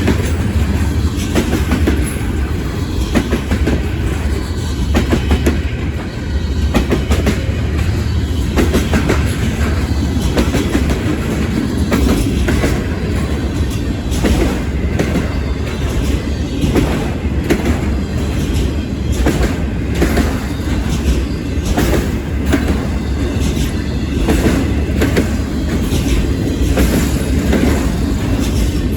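Freight train cars rolling past: a steady low rumble of wheels on rail with frequent clicks as the wheels cross rail joints.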